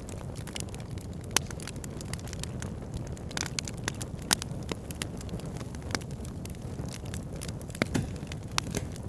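Wood fire burning in a fireplace: a steady low roar of flame with irregular sharp crackles and pops from the burning logs, a few of them louder, at about a second and a half, four seconds and eight seconds in.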